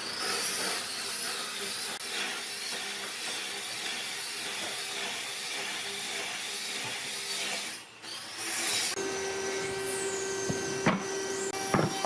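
Woodworking power tool running on a workpiece with a steady whirring noise; it drops out briefly about eight seconds in, then a machine with a steady hum runs, with a couple of sharp knocks near the end.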